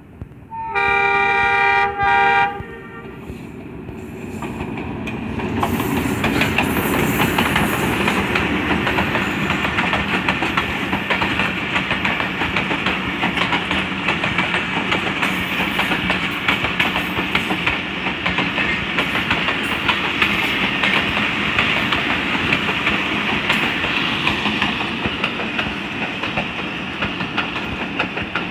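ZCU-20 diesel-electric locomotive sounds its multi-tone air horn about a second in, one blast with a short break before it stops. The train then comes past, and the rumble and wheel clatter of the passenger coaches builds over a few seconds and goes on steadily.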